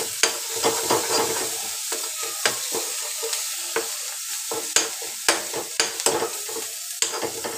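Onion and ginger-garlic paste sizzling in hot oil in a kadhai, with a steel ladle scraping and clicking against the pan as it is stirred continuously. The paste is being fried until lightly browned.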